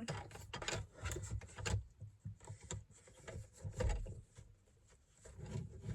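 Clicks, knocks and rubbing from a car seat being adjusted lower, with a heavier thump about four seconds in.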